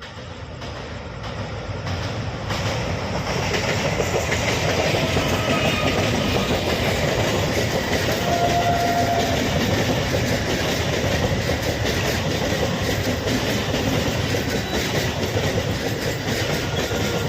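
A train passing close by at speed on a river bridge: the rumble builds over the first few seconds, then holds loud and steady with wheels clattering over the rail joints.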